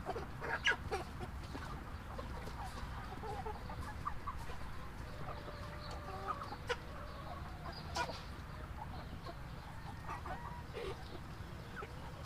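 Chickens clucking and chattering in short, scattered calls, over a steady low rumble.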